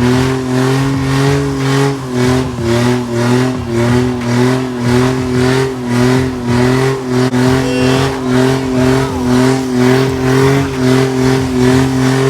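A car engine held at high, steady revs, its note pulsing about twice a second.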